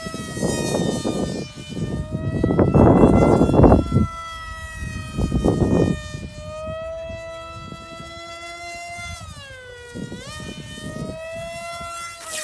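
High whine of a ParkZone Stryker RC flying wing's electric motor and propeller overhead, its pitch holding fairly steady, then dipping about three-quarters of the way through and climbing again. Gusts of wind buffet the microphone several times, loudest about three to four seconds in.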